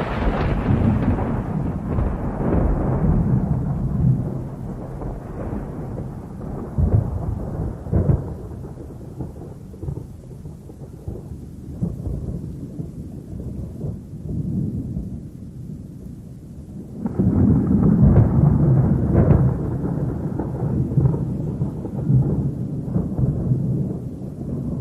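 Thunder rolling in a storm: a long rumble fades over the first few seconds, quieter rolls follow, and a fresh loud peal swells about two-thirds of the way through.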